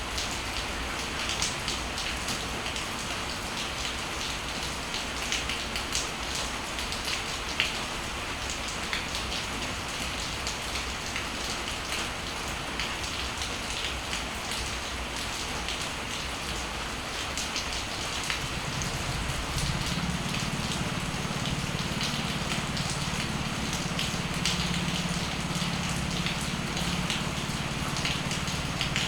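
Steady rain falling, with individual raindrops ticking sharply on nearby surfaces. About two-thirds of the way in, a low steady hum joins the rain.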